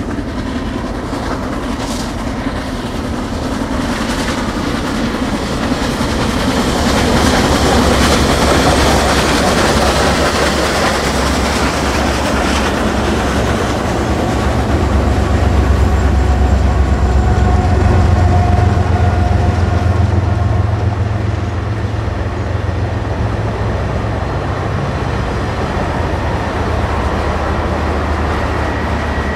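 Union Pacific Big Boy 4014, a 4-8-8-4 articulated steam locomotive, working past at the head of a train, followed by its trailing diesel locomotives, whose low engine rumble is loudest around the middle. Then the passenger cars roll by, wheels clicking over the rails.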